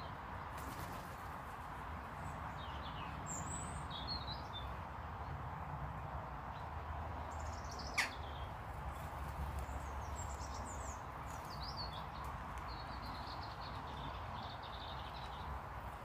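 Birds chirping now and then with short high calls over a steady background noise, with one sharp click about halfway through.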